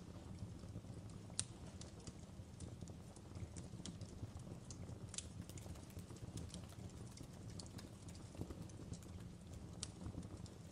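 Fireplace crackling: irregular sharp pops and snaps over a low steady rumble of burning wood, with one louder pop about a second and a half in.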